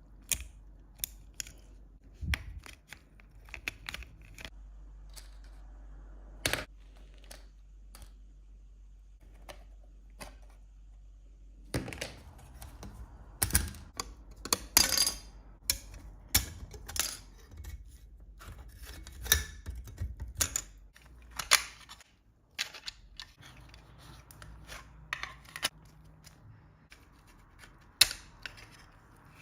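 Irregular clicks, snaps and knocks of hand work on car parts, coming thickest in the middle. A low steady hum runs underneath until about two thirds of the way through.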